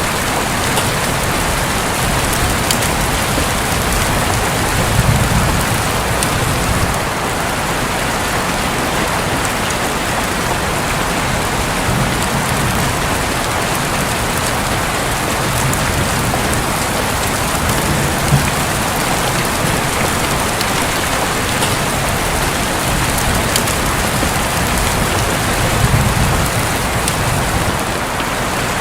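Steady heavy rain pattering on a roof, with a few soft low rumbles of distant thunder.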